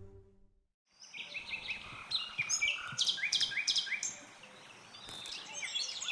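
Birdsong: several birds chirping and trilling in quick runs of short, repeated notes over a faint background hiss. It starts about a second in, just after a music chord fades out.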